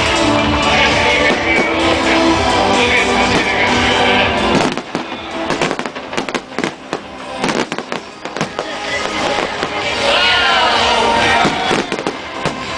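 Aerial fireworks going off in a rapid series of sharp bangs and crackles over loud music from a sound system. The music is loudest in the first few seconds; in the middle the bangs come thick and fast while the music drops back, and the music rises again near the end.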